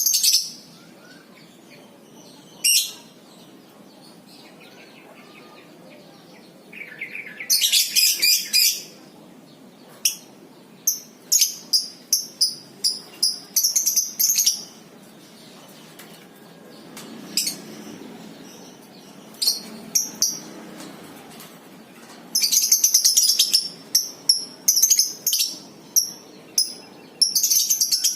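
Lovebirds chattering in rapid, high-pitched trilling bursts, the 'ngekek' song, with quieter gaps between the bursts.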